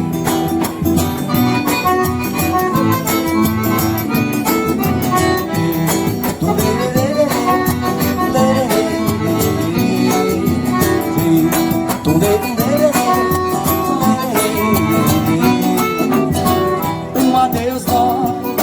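Forró band playing an instrumental break, the accordion carrying the melody over guitar and a steady percussion beat.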